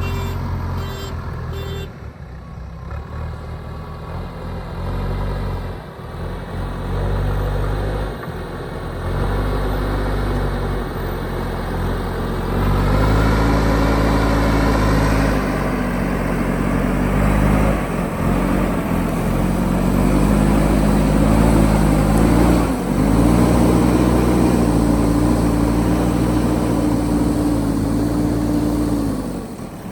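Heavy diesel engine of road-construction machinery working, its revs rising and falling again and again and heaviest through the second half. A few evenly spaced beeps sound in the first second.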